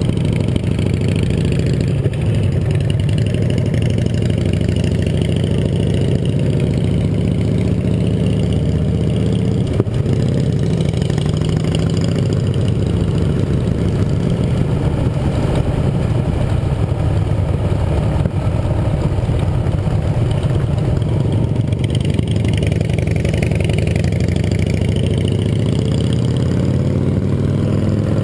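Yamaha XT 660R motorcycle's single-cylinder four-stroke engine running steadily while riding, with its pitch shifting slightly.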